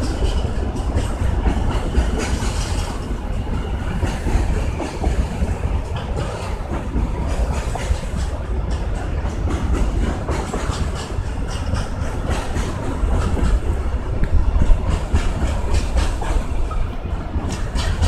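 Freight train of container and tank-container flat wagons rolling past, a steady rumble with the clickety-clack of wheels over rail joints.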